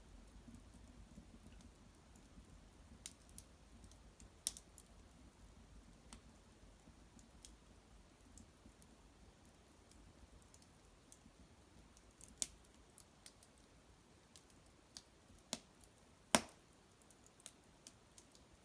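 Small fire crackling quietly, with scattered sharp pops at irregular intervals and the loudest pop about three-quarters of the way through.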